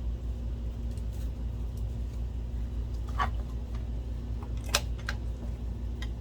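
A few short metallic clicks and taps as screws are driven into a projector's metal chassis with a screwdriver, the sharpest about three-quarters of the way through, over a steady low hum.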